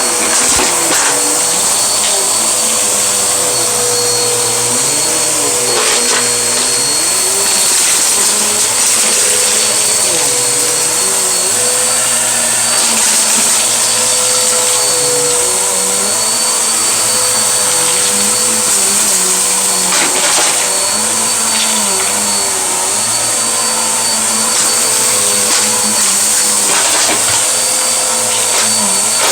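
Vacuum cleaner running steadily, its motor giving a constant whine over a rushing hiss of air, with a few brief knocks along the way.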